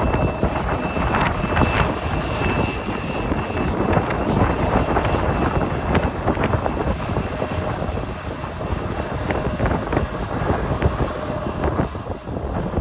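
Strong wind buffeting the microphone, mixed with the jet engines of a Boeing 737 MAX 8 (CFM LEAP-1B turbofans) as it lands, with a faint engine whine in the first few seconds.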